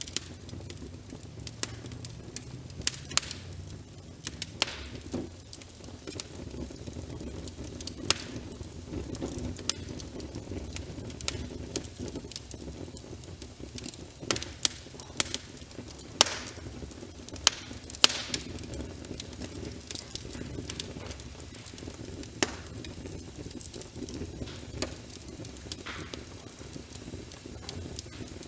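Wood fire crackling with sharp, irregular pops over a steady wash of rain.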